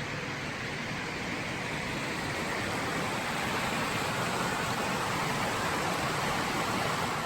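Steady rushing of a creek's flowing water, an even hiss with no distinct events.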